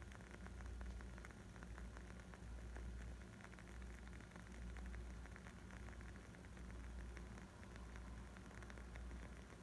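Wood fire crackling faintly: many small irregular pops and snaps over a steady low rumble.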